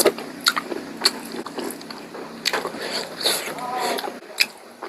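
Close-miked eating sounds of pork curry being chewed: wet smacking and chewing with sharp mouth clicks at irregular moments.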